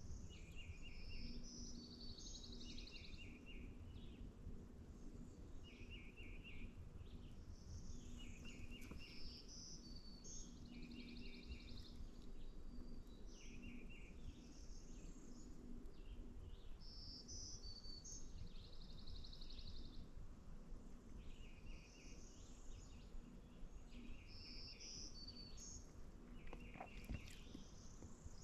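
Songbirds singing, each short phrase of quick repeated notes coming back every two to three seconds. A faint low hum runs underneath.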